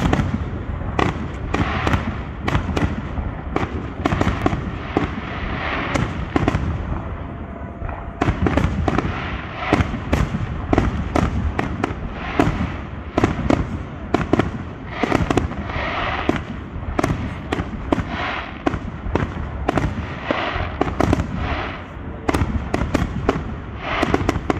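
Aerial fireworks finale: shells bursting in a dense, continuous barrage, several sharp bangs a second overlapping one another, with a haze of crackle between them.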